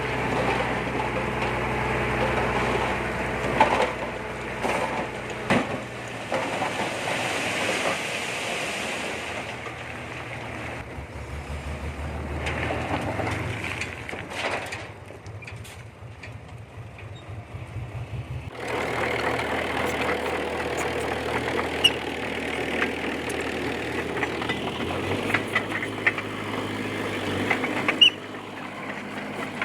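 D20P bulldozer's diesel engine running under changing load, with sharp metallic clanks now and then. The engine eases to a quieter note in the middle and picks up again about two-thirds of the way through.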